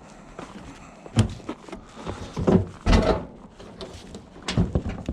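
A discarded washing machine being grabbed and shifted: a run of heavy knocks and clunks, loudest about a second in, around three seconds in and near the end.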